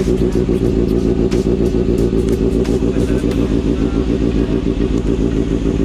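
Sport motorcycle with an aftermarket stainless slip-on exhaust idling steadily, with a fast, even exhaust pulse.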